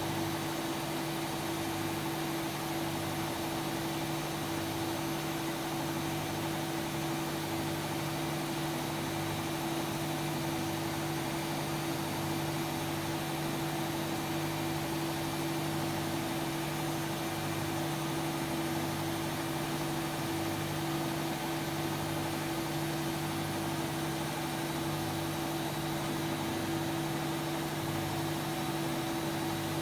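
Hotpoint-Ariston Aqualtis AQD972F washer-dryer running mid-cycle: a steady machine hum with a faint low pulse about once a second.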